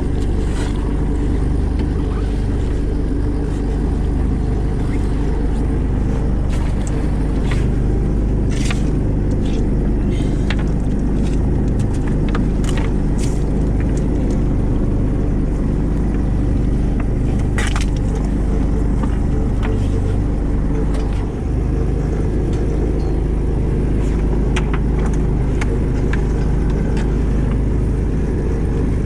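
Fishing boat's engine running steadily with a low drone, with scattered light clicks and knocks from work on deck.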